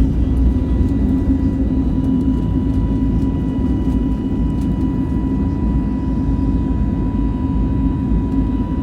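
Steady drone of an Airbus A320neo heard from inside the passenger cabin: engine and air noise running evenly, with a thin steady high tone.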